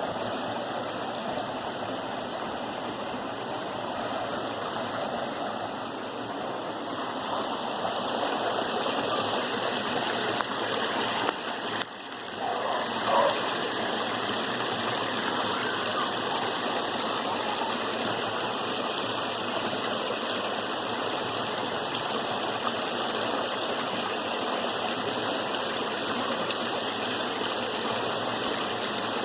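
River water rushing and flowing down steadily, a constant full sound of running water with a brief dip about twelve seconds in.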